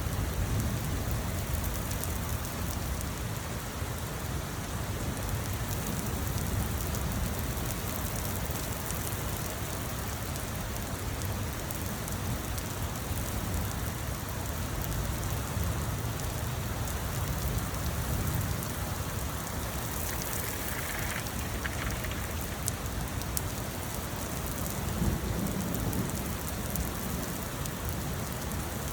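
Steady rain falling, with fine patter on top and a constant low rumble underneath.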